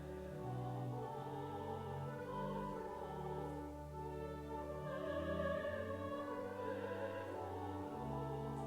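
Closing church hymn: sung voices with instrumental accompaniment, held chords moving note by note in a slow steady tempo.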